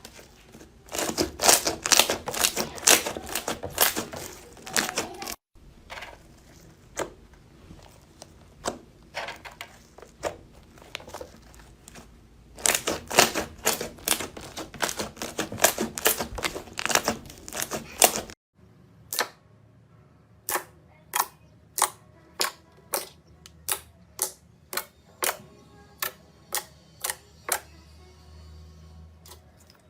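Slime being squeezed and pressed by hand, giving dense crackling clicks and pops. The sound breaks off suddenly twice, and in the last part the pops come singly, about two a second.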